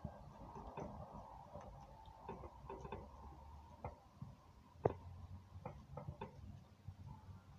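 Faint, irregularly spaced sharp clicks and taps, the loudest about five seconds in.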